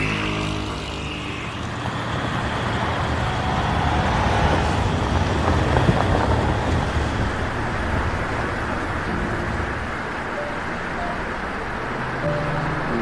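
Car engine and road noise from a car driving, steady with a swell in loudness around the middle.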